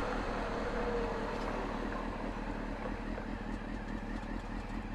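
Motorcycle engine running steadily amid traffic noise.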